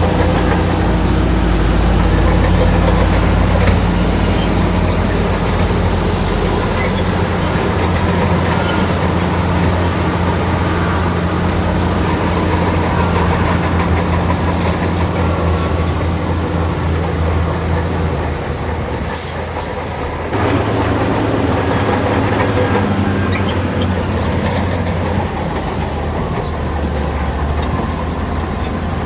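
Heavy diesel earthmoving machinery running steadily under load. About twenty seconds in, the sound dips and then jumps straight back with a lower engine note.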